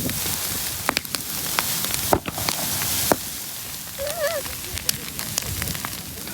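A large open bonfire of New Year decorations crackling, with a steady hiss of flame and frequent sharp pops and cracks of different strengths.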